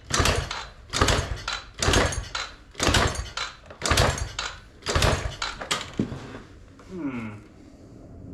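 Yamaha TTR90 dirt bike's kickstarter kicked about seven times, roughly once a second, without the engine catching. The owner suspects stripped gears in the kickstarter.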